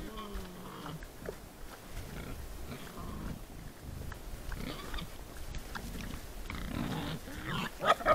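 Wild boars grunting in a group, with low, wavering calls and a brief louder sound near the end.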